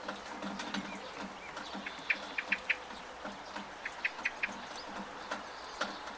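Steady monsoon rain with sharp drips and splashes from a rain gutter, and a bird calling in quick runs of three or four short chirps, twice.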